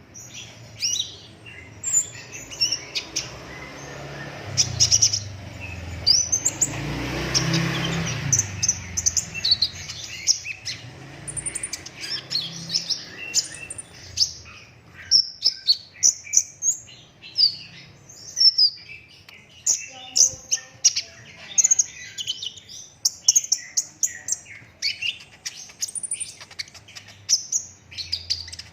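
Kolibri ninja sunbird singing full-on: rapid strings of short, sharp high chirps and trills, delivered in quick bursts.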